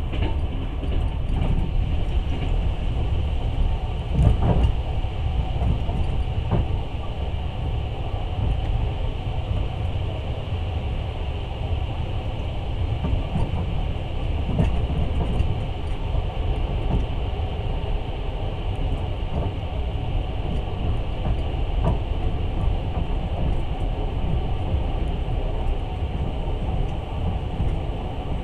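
Passenger train running along the line, heard from inside the carriage: a steady low rumble of the wheels on the rails, with a heavier knock about four seconds in.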